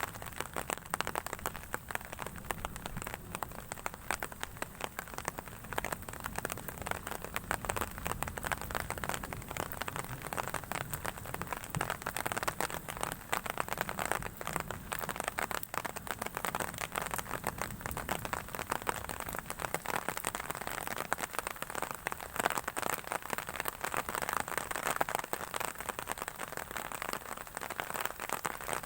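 Heavy rain falling, a steady dense patter of drops throughout.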